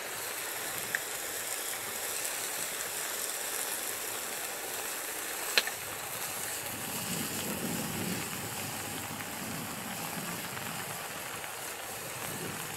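Steady hiss of rain, with two sharp snaps: one about a second in and a louder one just before the middle.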